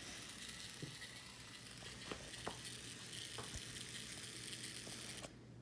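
Hexbug mouse toy's small vibration motor buzzing as it skitters over a hard surface, with a few light taps, cutting off suddenly near the end.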